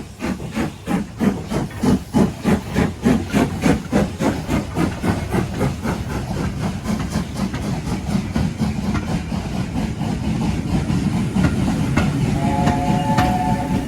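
Steam locomotive pulling away, its exhaust beats starting at about two a second and quickening until they run together into a steady rumble as the train gathers speed. A short, steady, chord-like whistle tone sounds near the end.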